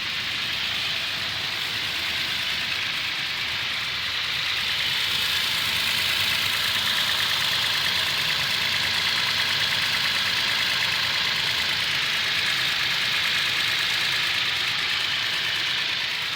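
Toyota Tacoma pickup engine idling while it warms up from a cold start, with the ticking noise that is heard most at idle. The owner believes the engine is defective; the dealer says the noise is within manufacturer specs. The sound fades near the end.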